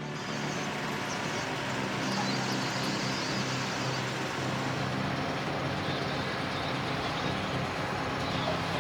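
A heavy vehicle's engine running steadily under road noise, a continuous low hum with even noise above it.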